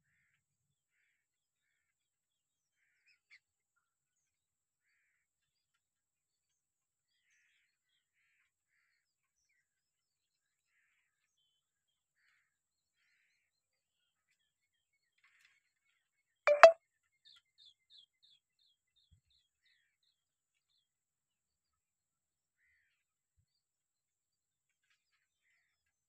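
Near silence for most of the time; about two-thirds of the way in, a sudden loud, harsh double sound, then a quick run of about eight short high bird chirps that fade away.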